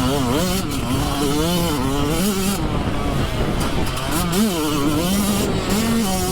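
Motocross dirt bike engine revving hard, its pitch climbing and dropping again and again as the rider works the throttle and gears around the track.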